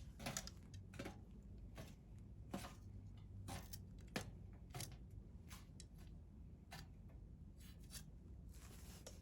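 Wood campfire crackling: about a dozen faint, irregular sharp pops and snaps over a low steady background.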